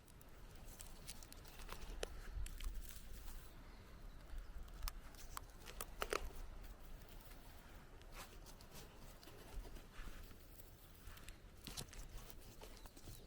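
Scattered light crackles and snaps of dry wood and leaf litter, with one louder snap about six seconds in.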